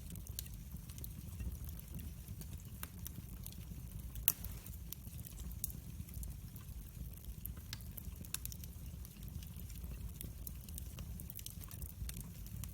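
Wood fire burning in a fireplace: irregular small crackles and snaps over a steady low rumble, with one sharper pop about four seconds in.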